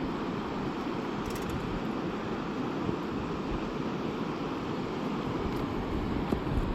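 Fast-flowing mountain river, a steady rushing of water.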